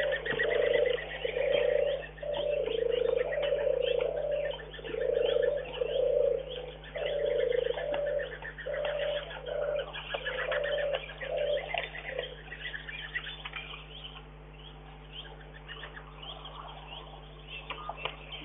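A bird's low cooing call, repeated about once a second, that stops about twelve seconds in. Small birds chirp high and quickly throughout.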